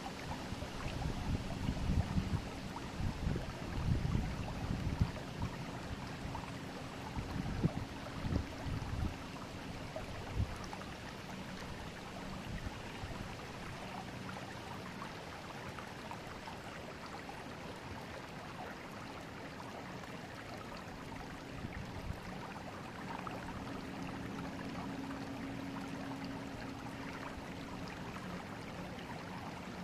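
River water flowing: a steady rush and babble. For about the first ten seconds there are irregular low rumbling thumps, and a faint low hum comes and goes.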